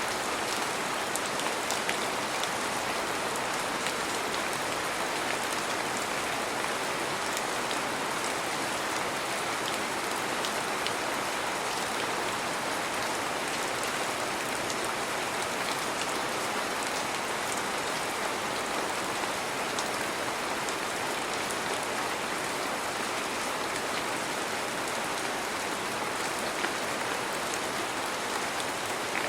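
Heavy rain falling steadily, a dense even hiss with many fine drop taps on surfaces.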